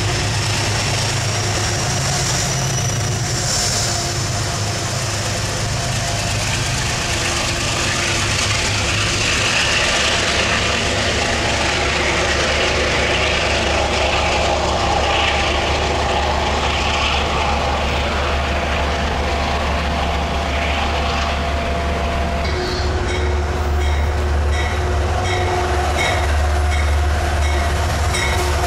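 A train running through the station: a steady low engine drone with rail and wheel noise. About three-quarters of the way in, an evenly repeating ticking pattern joins in.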